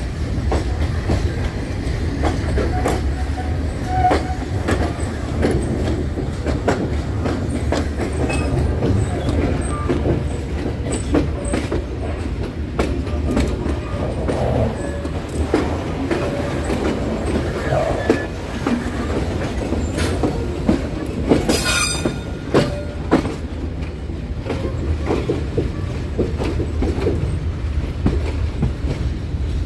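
Passenger train rolling over the rails with a steady rumble and frequent clicks of the wheels over rail joints and points. A short, sharp, hissing burst comes about two-thirds of the way through.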